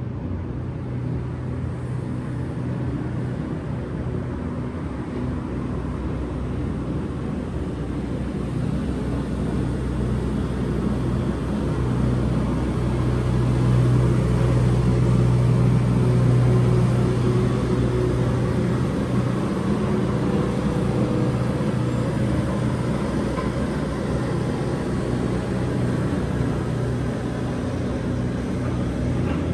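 Steady city street traffic, with a low engine hum that swells about halfway through as a vehicle passes, then eases off.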